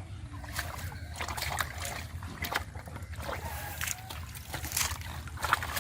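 Shallow river water splashing and sloshing in short, irregular bursts as hands work through it.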